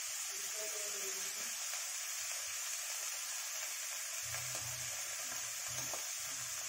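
Chopped onions and whole spices frying in hot mustard oil in an iron kadhai: a steady sizzle.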